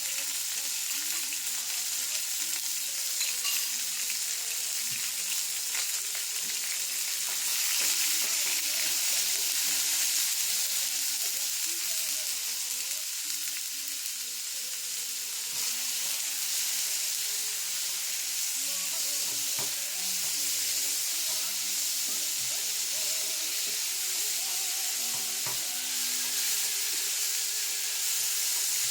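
Minced chicken frying in olive oil with garlic, onion and shiitake mushroom in a pan: a steady sizzle, with scattered small clicks and scrapes of the pan being stirred.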